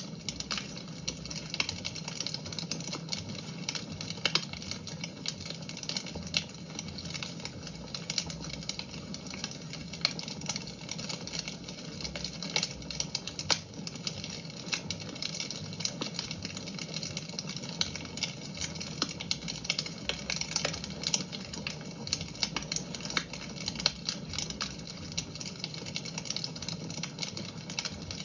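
Wood fire crackling in a fireplace: frequent, irregular sharp pops and snaps over a steady hiss.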